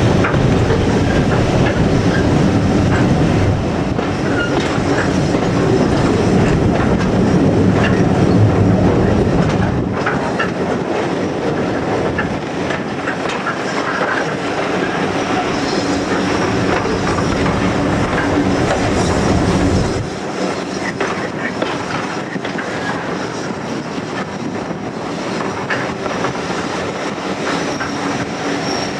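Heritage railway carriage running along the track, heard from inside: a steady rumble with the clickety-clack of wheels over rail joints and some wheel squeal. The deep rumble drops away about a third of the way through, and the whole sound gets quieter again about two-thirds through.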